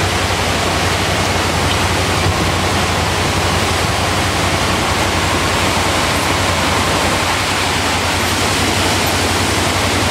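Rain-swollen river rushing under a bridge, a steady loud roar of water, with a small vehicle engine idling underneath.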